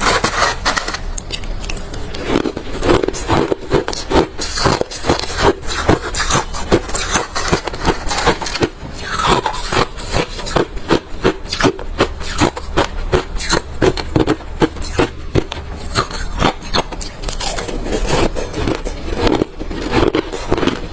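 Close-miked chewing of hard refrozen crushed ice: rapid, crunchy bites and cracks, several a second, with no pause.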